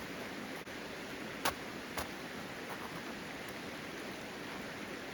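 A mountain river flowing under snow and ice, a steady rushing wash. Two short sharp clicks about a second and a half and two seconds in.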